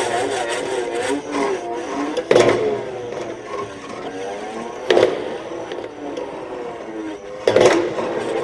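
Korean traditional zither music: strong plucked or struck notes about every two and a half seconds, each followed by sustained, wavering pitch bends.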